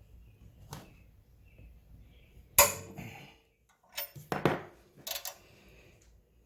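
Metal parts and tools clanking on a workbench. One sharp metallic clank with a brief ring comes about two and a half seconds in, followed by a quick clatter of smaller knocks.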